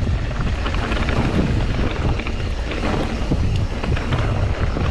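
Wind rushing over the microphone and mountain bike tyres rumbling over a loose, rocky descent, with scattered small rattles and knocks from the bike.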